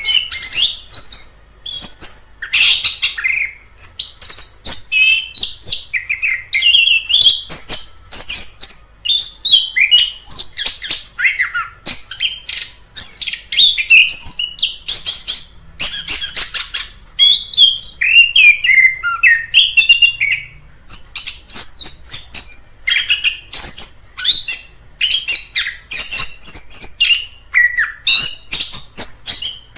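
Chestnut-capped thrush (anis kembang) singing a long, unbroken song of quick, varied high whistled phrases, the notes sliding up and down with barely a pause.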